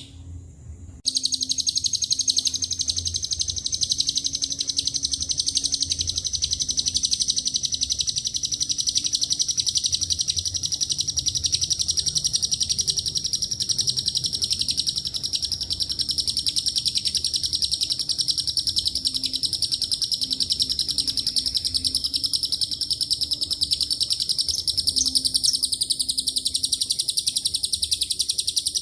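A lovebird's long ngekek: a single high, very rapid chattering trill that starts about a second in and runs on without a break.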